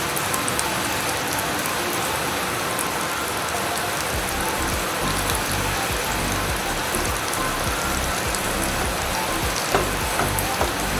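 Potato and bread snacks deep-frying in hot oil, a steady sizzle with fine crackling pops. A single sharp clack comes about ten seconds in.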